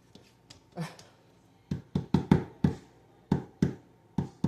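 A spoon knocking against the inside of a ceramic mug of tea as it is stirred: a run of sharp, dull knocks, two or three a second, beginning about a second and a half in.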